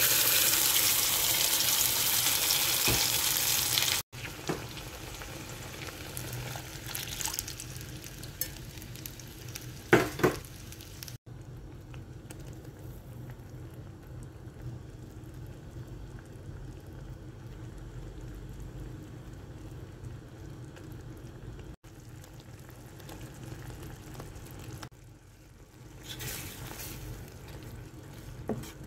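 Paste sizzling loudly as it fries in hot oil in a steel pan; after about four seconds the sizzle drops to a quieter, steady frying. A couple of sharp knocks come around ten seconds in, and near the end the sizzle rises again as the spoon stirs the mixture.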